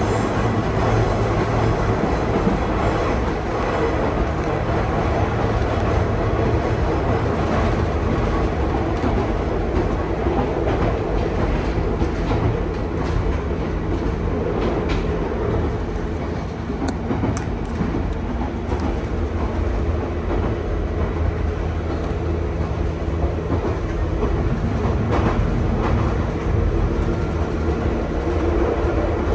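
Inside a Nankai 2200-series train car running at speed: a steady rumble of wheels on rail with a low hum from the running gear, broken by a few faint clicks.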